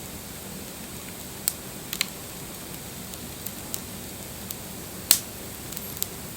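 Wood campfire crackling: a steady hiss of burning with irregular sharp pops and snaps, the loudest about five seconds in.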